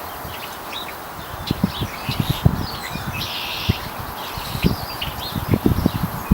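Small birds chirping, with irregular short low thumps bunched in two spells.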